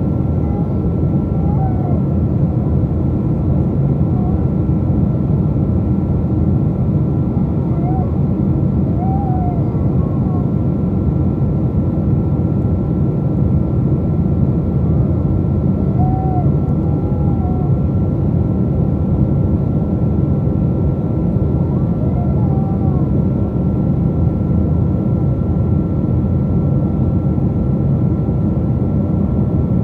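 Boeing 777 jet engines and airflow heard from inside the passenger cabin: a loud, steady, even rumble with a thin constant whine over it, and no change in engine power.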